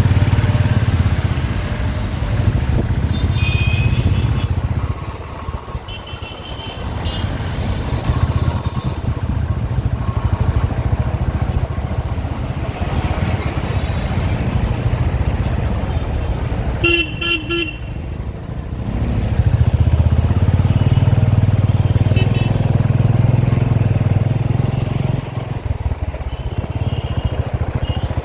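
Motorcycle ride through city traffic: a steady engine and wind rumble that eases off twice, with vehicle horns honking several times, the loudest a double honk about seventeen seconds in.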